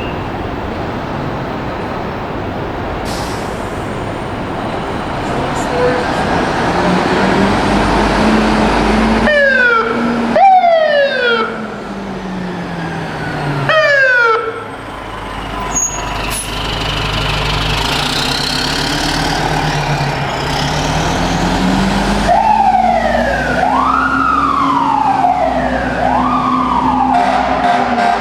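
A fire engine pulling out to a call. Its Federal Q mechanical siren winds up, falls away, then winds up again, over the running engine. Short falling electronic siren blips come twice in the middle, and near the end an electronic siren starts cycling up and down about every two seconds.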